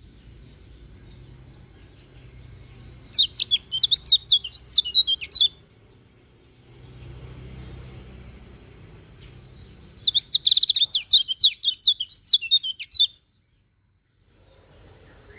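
Kecial kuning white-eye singing: two bursts of about two and a half seconds each of rapid, high, chirping notes, a few seconds apart.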